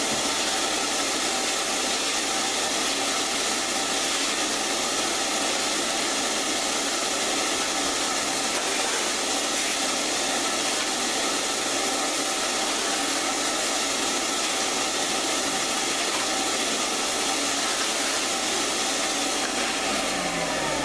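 Router running steadily through a cutting pass over a wooden table top, together with a dust collector. Near the end the router is switched off and its whine falls in pitch as it spins down.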